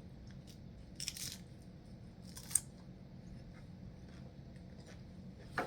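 Faint eating and food-handling noises: a few short crunches and clicks, the sharpest about two and a half seconds in, over a low steady room hum.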